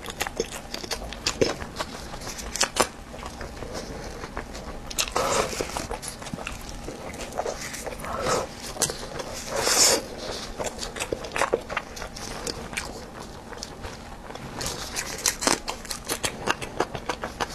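Close-miked eating of a crispy, crumb-coated fried food: crunchy bites followed by chewing full of sharp crackles and small clicks. The loudest crunches come about five, eight and ten seconds in, and again around fifteen seconds.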